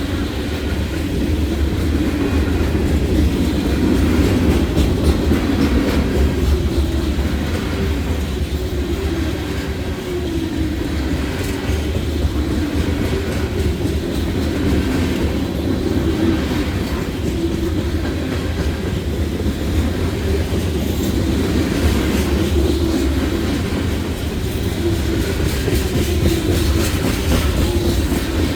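Freight cars of a long manifest train rolling past: a steady rumble of steel wheels on the rails, with a repeating clatter as wheelsets cross the rail joints.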